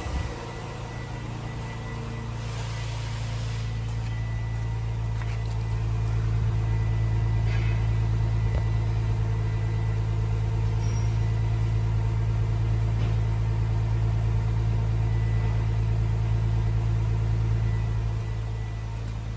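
Chrysler 3.5-litre V6 engine idling steadily, at an even pitch throughout. It grows louder over the first few seconds and drops back slightly near the end.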